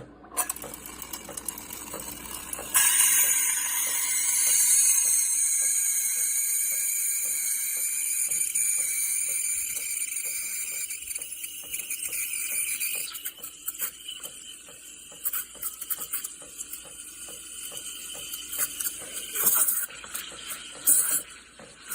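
De'Longhi La Specialista Opera espresso machine at work: a loud hissing run that starts about three seconds in and lasts about ten seconds, then quieter sounds with scattered clinks and knocks.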